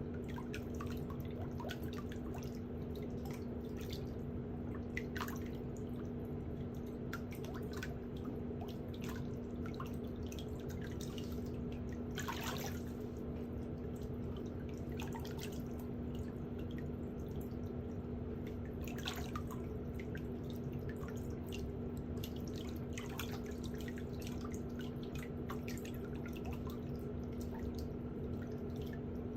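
Scattered small clicks and scrapes from hand tools working on a toenail during a pedicure, one longer scrape about twelve seconds in, over a steady low hum.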